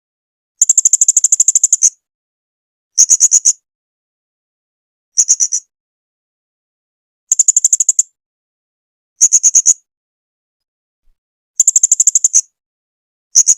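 Blue-crowned hanging parrot (serindit) calling in short bursts of rapid, high-pitched sharp chirps, about ten a second. There are seven bursts, one to two seconds apart, the first and longest lasting just over a second.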